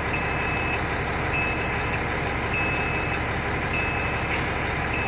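Electronic alarm beeping at a steady rhythm, each beep about half a second long and repeating about once every 1.2 seconds, over a steady low rumble.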